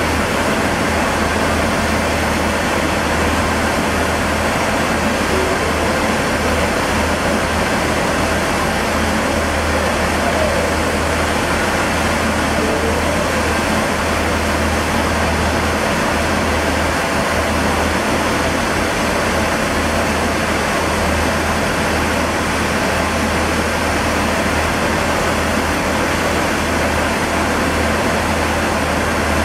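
A Class 185 diesel multiple unit moving slowly over pointwork, heard under a steady rushing noise with a low rumble beneath it.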